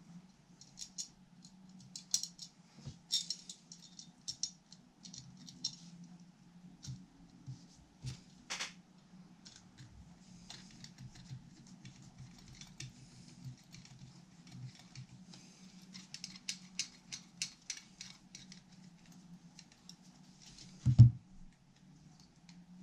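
Small tools and metal parts being handled during guitar assembly: clusters of light clicks, taps and rattles over a steady low hum, with one loud thump near the end.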